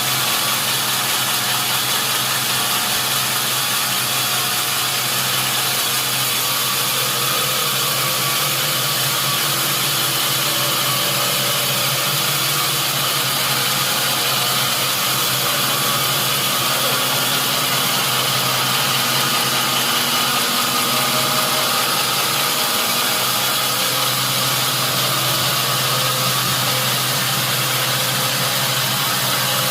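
Sawmill machinery running steadily: a constant engine-like hum under a strong hiss, with a brief dip in the hum about three-quarters of the way through.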